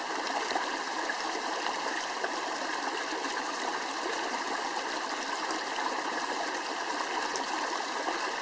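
Flowing water from a small stream, a steady, even rushing.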